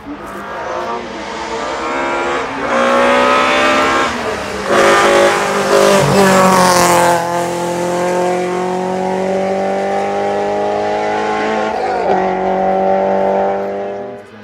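A car's engine revving hard as it accelerates up a hill-climb road. Its pitch climbs in steps through several gear changes in the first seven seconds, then holds high at full throttle.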